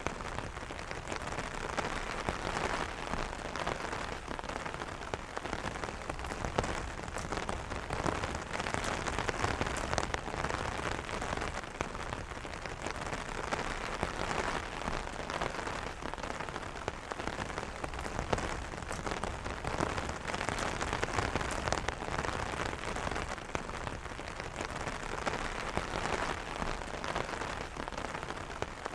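Steady rain pattering on an umbrella's fabric canopy, a dense, even patter of many small drop taps.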